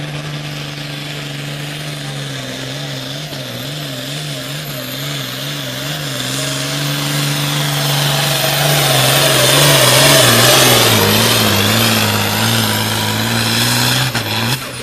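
A hot farm class pulling tractor's turbocharged diesel engine working hard under load, its pitch wavering up and down in a steady wobble. It grows louder with a rising hiss to a peak about ten seconds in. The pitch then drops and it runs on lower until it cuts off near the end.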